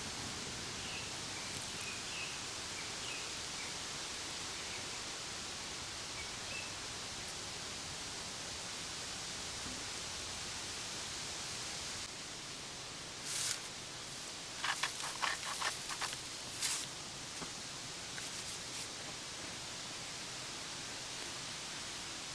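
Steady sizzling hiss of steaks cooking over a campfire. A run of sharp crackles and clicks comes in the second half.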